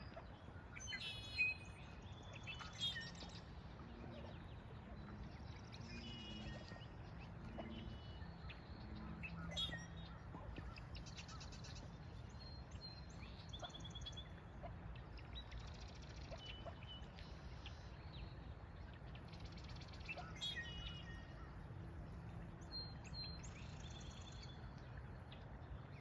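Birds chirping and calling in short high bursts, scattered through the whole stretch, over a steady low outdoor rumble.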